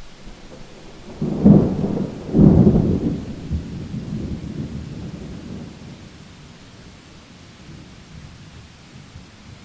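Thunder cracks twice close together about a second and a half in, then rumbles away over several seconds, with steady rain hiss underneath.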